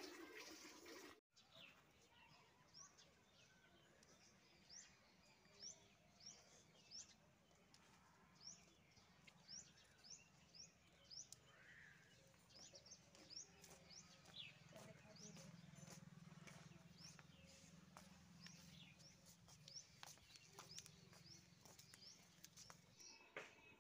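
Faint small-bird chirping: short, high calls repeating one or two times a second, with scattered soft clicks between them.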